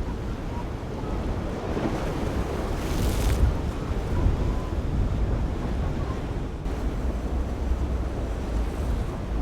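Wind buffeting the microphone over breaking waves and surf, with a louder rush of water about three seconds in.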